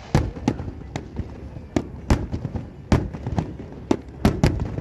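Fireworks exploding in an irregular run of about ten sharp bangs and pops, several close together.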